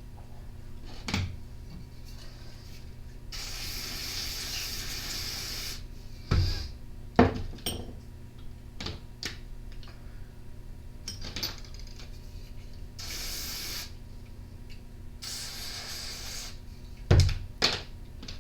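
Aerosol carburetor cleaner sprayed in three hissing bursts of one to two and a half seconds each, onto the trimmer's carburetor parts. Small metal parts and tools click and knock on the bench in between, over a steady low hum.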